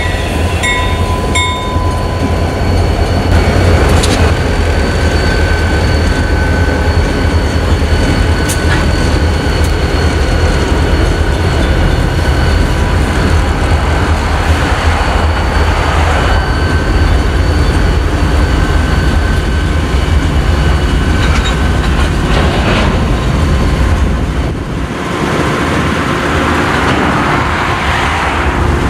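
Freight train rolling past at close range: a loud, heavy, steady rumble with occasional knocks and a thin, steady, high-pitched whine, easing briefly near the end.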